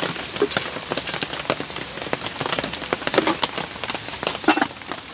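Steady rain falling, a dense run of irregular drop hits over a constant hiss.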